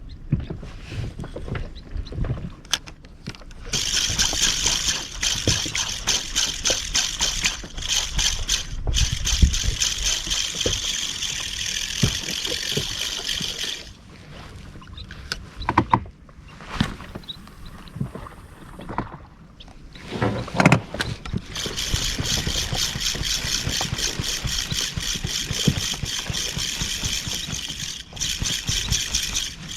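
Fishing reel giving a fast, even clicking in two long stretches of about ten seconds each, with irregular knocks and low rumble between them.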